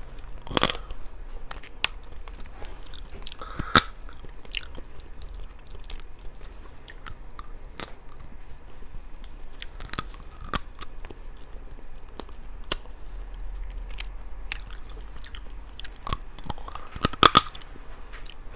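Close-up eating sounds of someone chewing seasoned sea snails and shellfish, with scattered sharp clicks and crunches. The loudest come about half a second in, near four seconds and in a quick cluster near the end.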